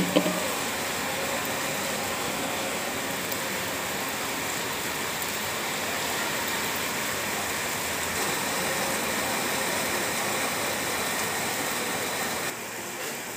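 Heavy rain falling outside, a steady even hiss of rain that drops in level just before the end.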